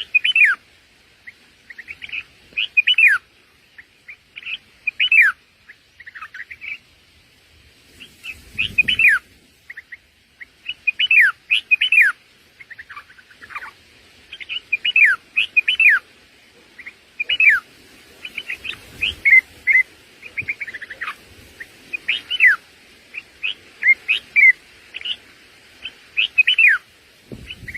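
Small birds chirping: clusters of short, high, downward-sliding chirps, a few every second or two, with a brief low rumble about nine seconds in.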